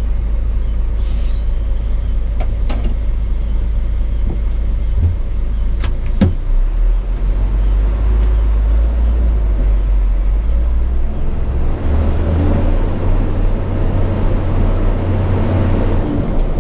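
Cab interior noise of a Hino 500 FM 260 JD ten-wheel truck on the move: steady diesel engine drone with road noise. There are a couple of sharp clicks around six seconds in, and the engine grows louder from about twelve seconds.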